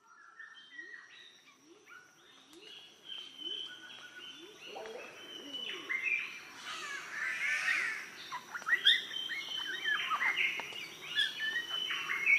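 Several birds chirping and whistling together, the chorus growing louder about five seconds in, with a low call repeating about twice a second underneath.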